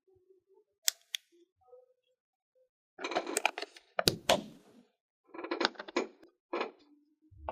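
Toy picnic playset pieces being handled: two sharp clicks about a second in, then several short clusters of clicking, clattering and rustling.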